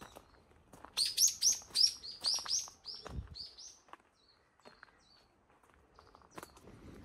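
A bird singing a quick run of about ten sharp, high chirps, then a few fainter, shorter notes.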